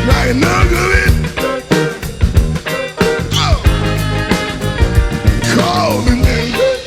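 Rock band music with a steady drum beat and heavy low bass notes. A lead line slides up and down in pitch over them.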